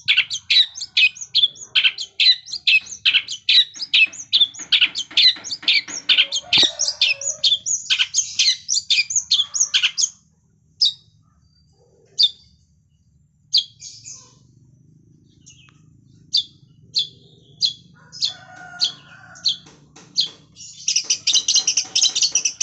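Long-tailed shrike (cendet) singing in mimicry of lovebird calls: a fast string of sharp, high chirps at about four a second, thinning out to scattered chirps about ten seconds in, then a dense trill near the end. A single knock about a third of the way in.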